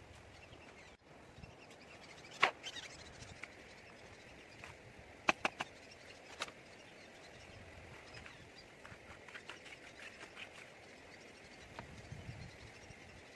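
Outdoor background with a steady faint hiss, broken by several sharp knocks or clicks: a loud one about two and a half seconds in, a quick pair a little after five seconds, and another about a second later.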